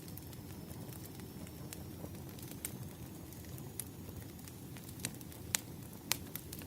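Burning firewood crackling: scattered sharp pops over a low, steady rumble of flames, with a few louder pops near the end.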